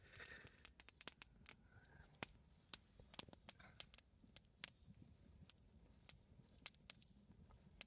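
Faint wood fire burning in a brazier, crackling with many sharp, irregular pops.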